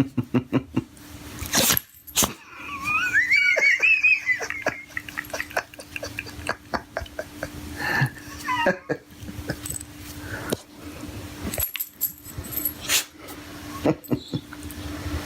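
A dog whining in its greeting: a high, wavering whine about three seconds in and a shorter one near nine seconds, with scattered clicks and knocks between them.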